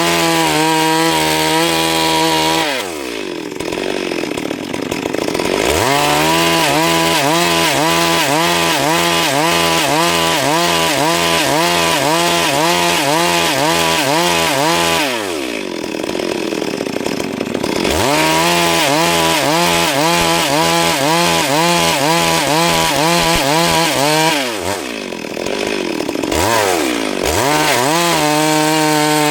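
Stihl MS 382 two-stroke chainsaw ripping a Siris log lengthwise at full throttle, its pitch wavering as the chain works through the wood. Three times the revs fall away and climb back up: about three seconds in, about fifteen seconds in, and near twenty-five seconds.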